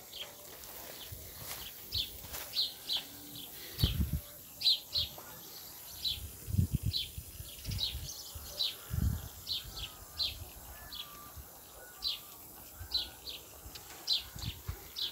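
Small birds chirping, short high calls repeated every half second or so, with a few dull low thumps in between.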